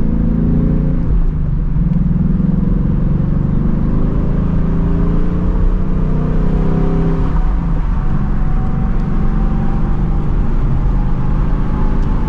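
2024 Ford Mustang GT's 5.0-litre V8 with its stock active exhaust, cruising at low revs under light throttle. The engine note eases down in pitch at first, then climbs slowly through the second half as the car gently gathers speed.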